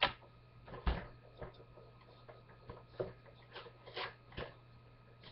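A toy accessory box being opened and handled: a string of short knocks and taps as the packaging and the small plastic pieces inside are moved about, about seven over five seconds.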